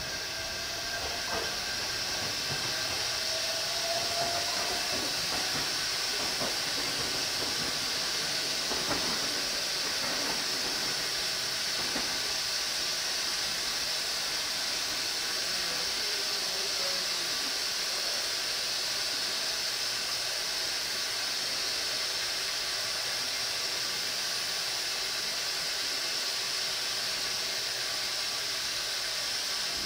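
Steady high hiss over faint rail noise as a Shinano Railway SR1 series electric train approaches over the points, with a faint rising whine about two seconds in.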